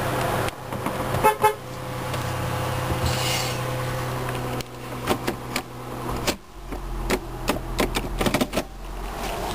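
2009 Dodge Journey SXT engine idling, heard from inside the cabin, with two short beeps about a second and a half in. A run of sharp clicks follows in the second half.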